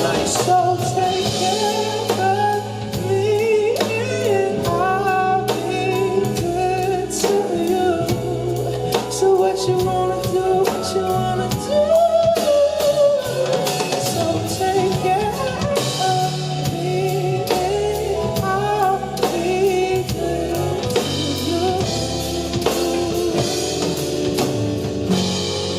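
Live band music with a drum kit and bass under a male singer's sung line, with no clear words.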